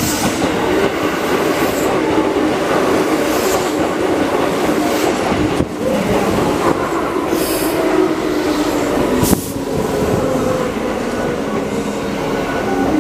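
Keihan 2400-series electric train pulling into the station, its wheels clacking over rail joints and squealing as it runs along the platform.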